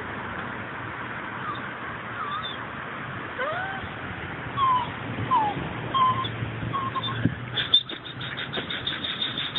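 Birds chirping: scattered short rising and falling chirps over a steady background hiss, then near the end a fast run of sharp repeated notes, about six a second.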